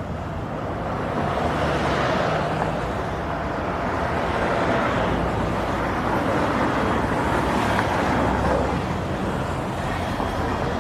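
Steady motor vehicle noise: an engine hum under a continuous rushing sound, holding level throughout.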